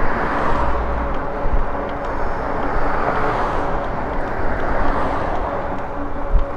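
Wind and road noise from riding an electric bike along a street: a steady rushing rumble, with a faint, even hum underneath.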